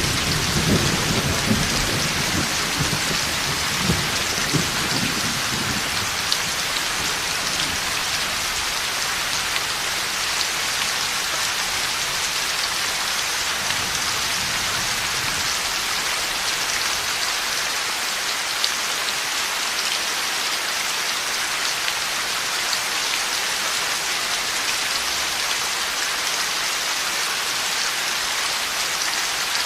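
Heavy, steady rain pouring down, with a low thunder rumble that dies away over the first few seconds.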